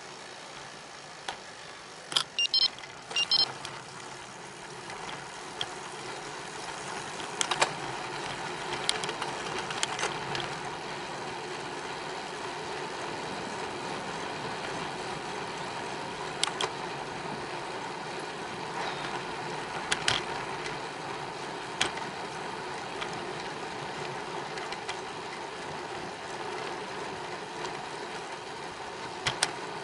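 Riding noise from a bicycle: a steady rumble of tyres rolling on pavement mixed with wind noise, with sharp clicks and rattles scattered through, several close together about two to three seconds in.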